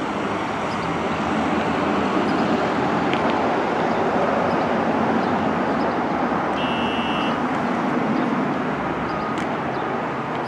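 Steady rumble of a distant subway train on the elevated line mixed with street traffic, swelling a little in the middle. A short high beep sounds about seven seconds in.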